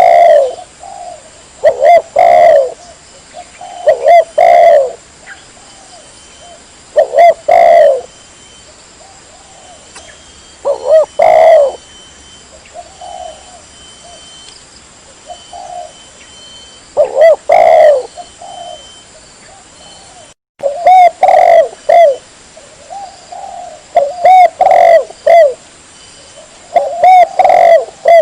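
Spotted dove (tekukur) cooing: loud phrases of a few low notes repeated every two to three seconds, with fainter coos between them. The sound drops out for an instant about twenty seconds in.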